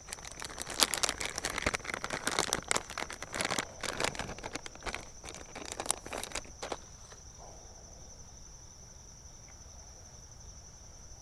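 Plastic soft-bait packaging crinkling as a Z-Man TRD Craw is taken out and handled, stopping about seven seconds in. A steady high drone of crickets runs underneath.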